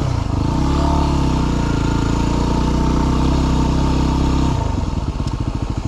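Yamaha WR250R's single-cylinder four-stroke engine running under the rider on a rough mountain trail. The note is steady at first, then about four and a half seconds in it drops to a low, pulsing beat.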